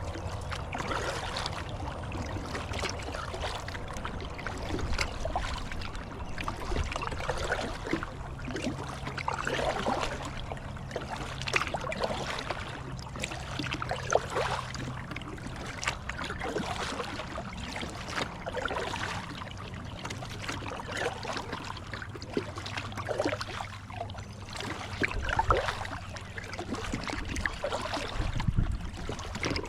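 Kayak paddle strokes dipping and splashing in river water, repeated every second or two, over the steady rush of the current along the hull.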